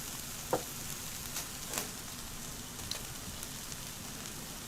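Shrimp and vegetables sizzling on an electric tabletop grill, a steady hiss, with a few short clicks about half a second in and again near the middle.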